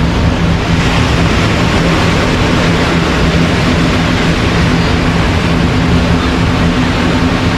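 Steady rush of surf and wind on an open beach, with a low steady drone underneath.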